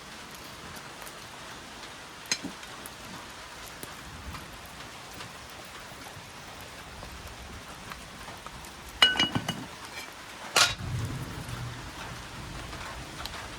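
A steady watery hiss, with a sharp click a couple of seconds in, a brief metallic clinking with a ringing tone about nine seconds in, and a knock followed by a short low rumble just after.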